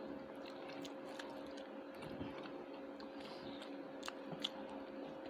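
Faint close-up eating sounds: a person chewing food, with small mouth clicks and smacks. A steady low hum runs underneath.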